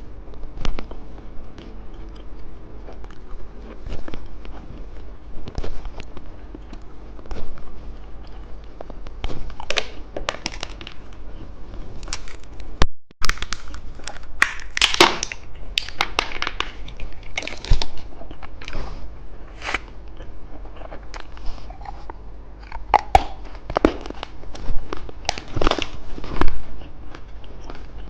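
Close-up eating sounds: candy being bitten, crunched and chewed, with many sharp crackles scattered throughout and a brief gap about halfway through.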